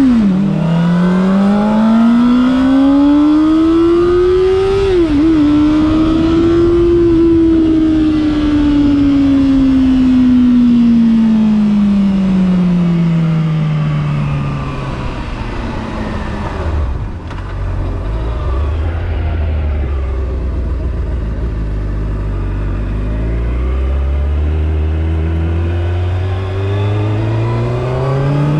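Honda CBR600RR's inline-four engine pulling hard through rising revs, with a quick upshift about five seconds in. The revs then fall slowly for about ten seconds as the bike slows, stay low through the middle, and climb again as it accelerates near the end.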